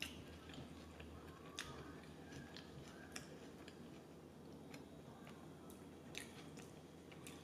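Faint chewing of a mouthful of soft tortilla wrap, with a few small mouth clicks scattered through.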